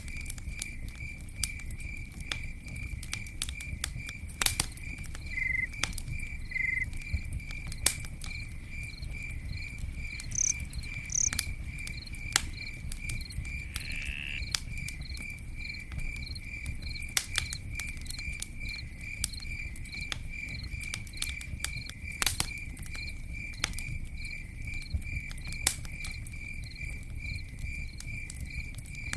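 Campfire crackling, with sharp pops scattered irregularly over a low steady rumble of the burning wood. A cricket chirps steadily alongside, a few high chirps a second at an even pace.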